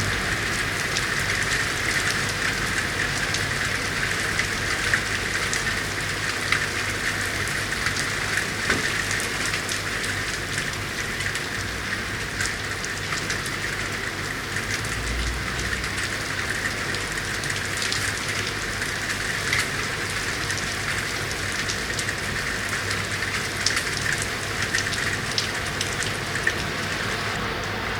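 Steady rain falling on city surfaces: an even hiss with many individual drops ticking sharply, over a low steady hum.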